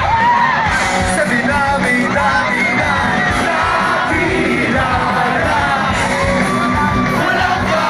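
Live rock band playing at full volume while a large crowd sings and yells along.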